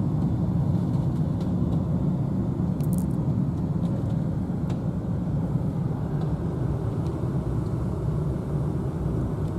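Steady low rumble of a vehicle driving, even throughout, with a couple of faint crackles about three seconds in.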